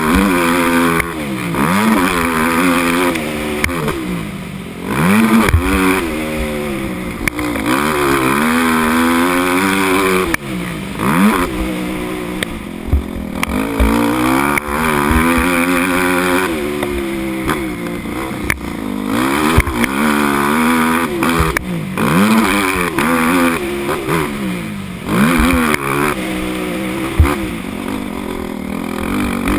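Motocross dirt bike engine revving up and dropping back again and again as the throttle is worked on and off around the track, its pitch climbing and falling every few seconds. A few short thumps break in along the way.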